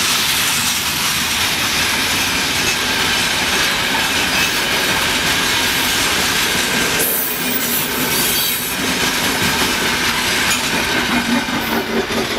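Freight train's open gondola wagons rolling past, steel wheels running on the rails with a thin steady squeal. The last wagon goes by near the end.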